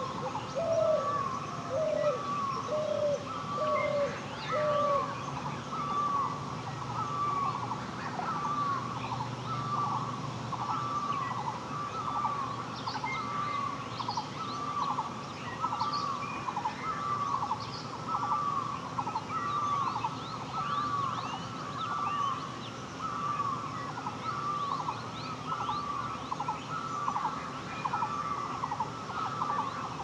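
A bird repeats a short call over and over, about one and a half times a second, while other birds chirp. A second, lower call sounds about five times in the first few seconds.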